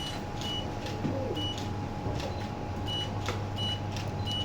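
Press cameras at a photo call: short high focus-confirmation beeps and shutter clicks at irregular intervals, over a steady low hum.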